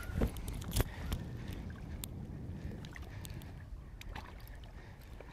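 Scattered knocks and clicks of handling on a fishing boat's deck while a hooked bass is played, over a low steady rumble. The loudest knock comes about a second in.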